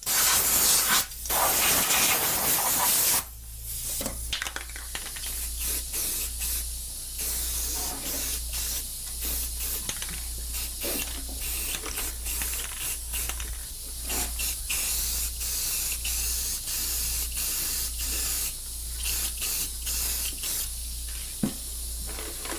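Aerosol can of spray finish hissing: one loud continuous spray for about three seconds, then many shorter, quieter spurts.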